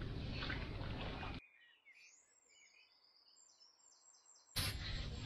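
Steady outdoor noise that cuts out abruptly, leaving a quiet stretch in which a small bird gives one swooping call followed by a short run of quick repeated high chirps; the noise then returns just as abruptly near the end.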